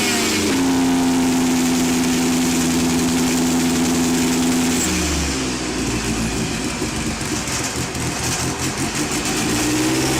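Lancia Delta S4's twin-charged four-cylinder engine running at steady raised revs, then dropping about halfway through to a lumpy, uneven idle, and revving up again near the end.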